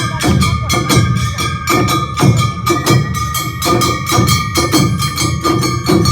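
Awa Odori festival band (hayashi) playing the nozomeki: drums and a small hand gong beating a rapid, steady rhythm under held high tones.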